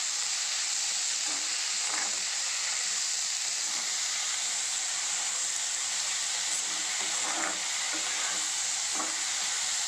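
Amaranth greens with onion, garlic and tomato sizzling in hot oil in a black kadai as they are stirred with a steel ladle: a steady frying hiss with a few light scrapes of the ladle.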